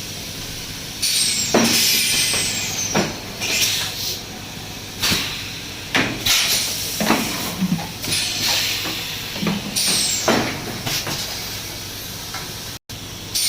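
Plastic bottle and jar making machine at work: repeated sharp knocks, each followed by a burst of compressed-air hiss that falls in pitch, about every one to two seconds, over a steady machine hum.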